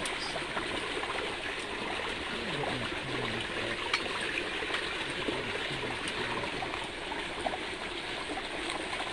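A creek running steadily, an even rushing of flowing water.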